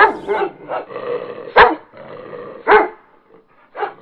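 Dog barking: a string of short, sharp barks, the loudest about a second and a half in, coming more sparsely near the end.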